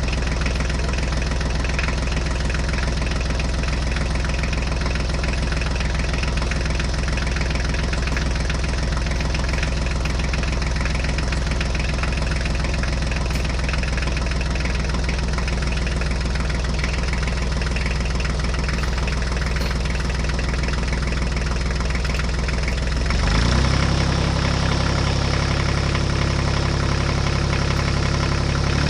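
An engine idling steadily. About 23 seconds in, it speeds up a little and gets briefly louder, then holds at the higher speed.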